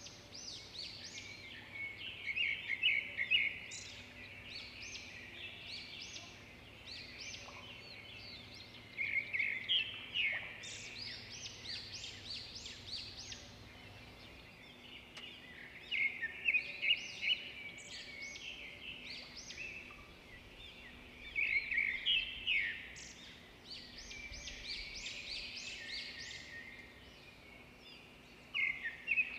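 Birds chirping in about five separate bursts of rapid, high notes that sweep downward, a few seconds apart, over a faint steady background hiss.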